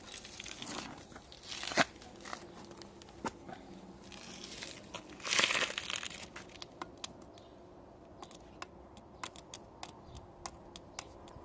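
Handling noise: rustling with two louder scraping swells, then many small sharp clicks and taps, as parts of a car starter motor are handled.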